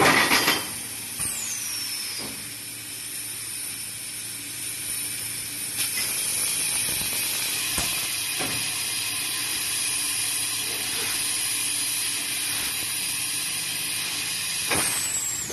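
CNC laser tube cutting machine at work: a steady high hiss, with scattered mechanical clicks and knocks and a short falling whistle about a second in.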